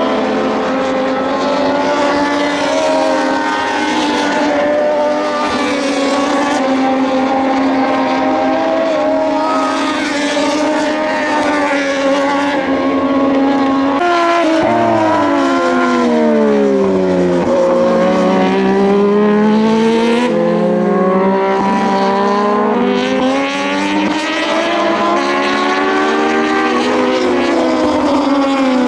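Several Moto2 bikes with Triumph 765 cc three-cylinder engines running at high revs. The engine note holds steady for the first half, then drops in pitch through a run of downshifts about halfway in, and climbs again as the bikes accelerate near the end.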